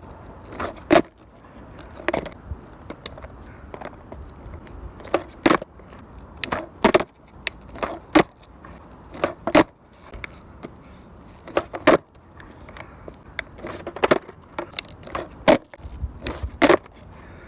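Skateboard clattering on pavement: about a dozen sharp, irregular clacks of the board and wheels striking the ground, over a steady low rumble.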